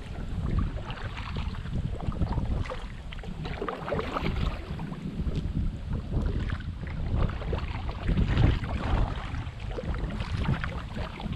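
Water splashing and lapping around a kayak or small rowed boat moving along a river, with irregular splashes. A steady low rumble of wind buffets the microphone underneath.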